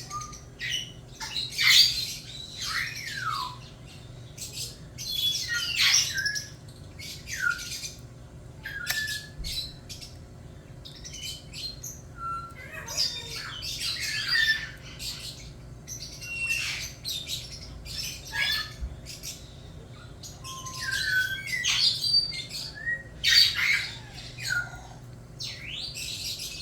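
Hatching chick squawking over and over in short, high calls that slide down in pitch, as its shell and the membrane stuck to it are being picked away, with faint clicks of the shell being handled.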